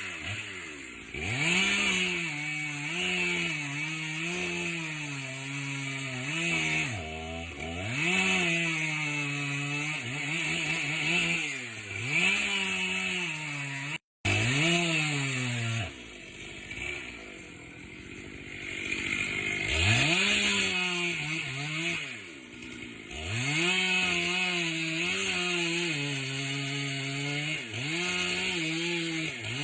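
Stihl chainsaw cutting into a poplar trunk: the engine revs up, then sags in pitch as the chain bites into the wood, again and again. The sound drops out abruptly for a moment about halfway through.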